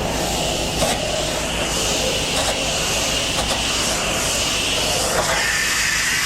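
Gas-engine pressure washer running steadily, with the hiss of the high-pressure water spray over it.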